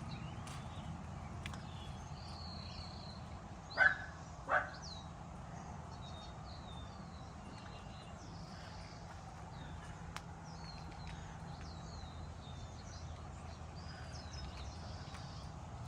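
A dog barking twice, two short barks under a second apart about four seconds in, over small birds chirping and a steady low rumble.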